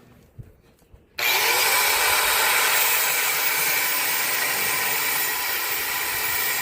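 Angle grinder spinning up about a second in, then cutting steel steadily with an abrasive cutoff wheel.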